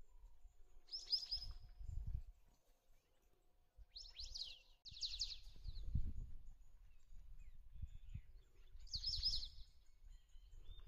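Wild birds calling: short bursts of rapid, high, downward-sweeping notes, about a second in, twice around the middle and again near the end, over intermittent low rumbling noise.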